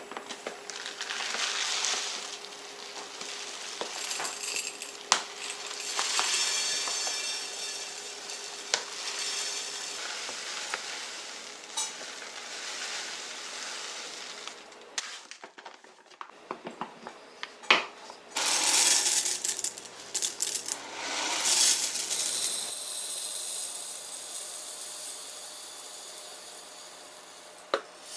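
Kitchen clatter: dishes and utensils clinking and knocking, with several stretches of hissing noise that swell and fade.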